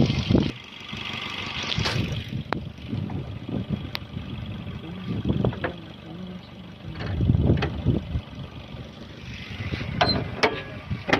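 Maruti Swift Dzire's 1197 cc four-cylinder petrol engine idling quietly just after a start, under gusts of wind on the microphone. A couple of sharp knocks about ten seconds in as the bonnet is shut.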